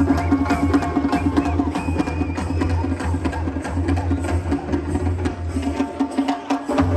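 Live concert music with heavy drums and percussion over a strong bass line; the bass drops out for a moment about six seconds in and comes back.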